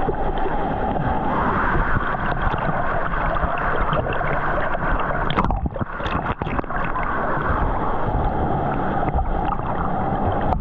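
Churning water of a waterfall plunge pool close around a waterproof camera, a steady gurgling rush. A few sharp knocks come about halfway through.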